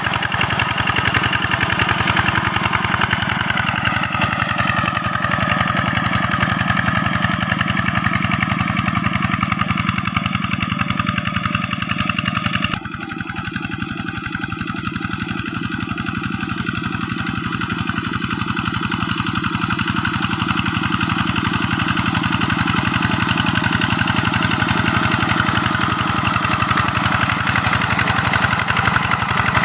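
A two-wheel hand tractor's single-cylinder diesel engine running steadily with a rapid chugging. It drops suddenly in loudness about thirteen seconds in, then slowly grows louder again.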